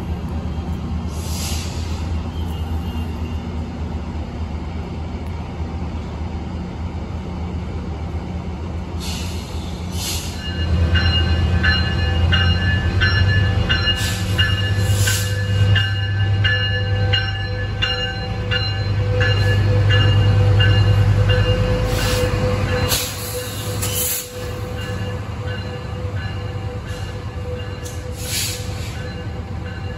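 Light rail trains at a station platform. First a steady low rumble, then from about ten seconds in a train coming in louder, its rumble topped by high wheel squeal and ringing tones. After a sudden drop, a quieter steady rumble beside a stopped commuter train of bilevel coaches.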